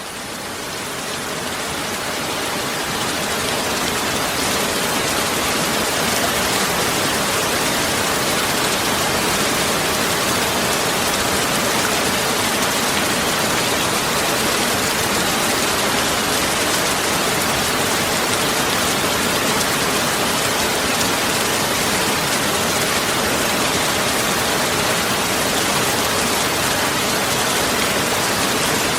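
Heavy rain falling steadily, a dense, even hiss. It fades up over the first few seconds, then holds level.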